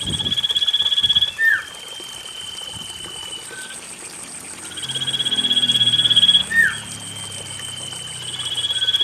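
Common iora (cipoh) calls, played as a lure to get a caged bird singing. The pattern comes twice: a fast pulsing trill, then a long, steady, slightly falling whistle and a short downward-sweeping note. A faint steady high tone runs beneath.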